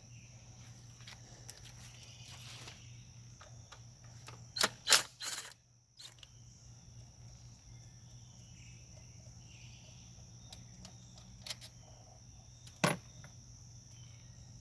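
Hand tools clicking and knocking against engine parts: a quick cluster of three sharp clicks about five seconds in, and two more single clicks near the end, over a steady high tone and a low hum.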